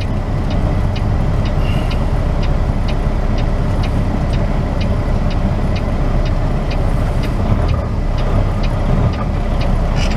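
Steady engine and road rumble of a semi truck heard from inside the cab, with a turn signal clicking evenly about twice a second.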